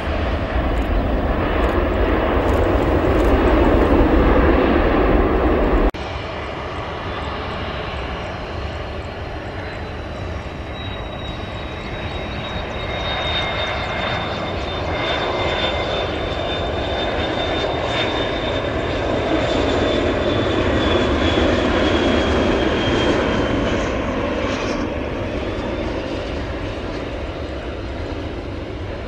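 Jet airliner engines at an airport: a loud low rumble breaks off suddenly about six seconds in. Steadier engine noise follows, with a thin high whine that holds for most of the rest and stops near the end.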